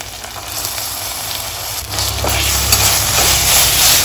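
Sliced onions, green chillies and ginger-garlic paste sizzling in hot oil and ghee in a steel pressure cooker while a spatula stirs and scrapes the pan. The sizzle and scraping get louder about two seconds in as the stirring starts in earnest.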